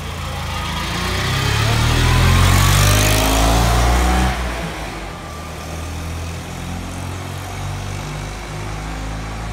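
Classic Fiat 500's air-cooled two-cylinder engine accelerating as the car drives past and away, its pitch and loudness rising to a peak about three to four seconds in. The sound then drops suddenly and the engine runs on more steadily.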